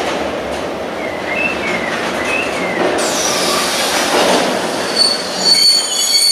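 Freight train of pressurised gas tank wagons rolling past, its wheels running loudly on the rails and squealing. Wavering squeals come between about one and three seconds in, and high, steady squealing tones from about five seconds in.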